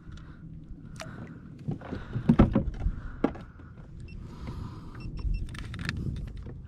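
Scattered clicks, knocks and rattles of gear being handled on a fishing kayak, with a cluster of louder knocks about two seconds in.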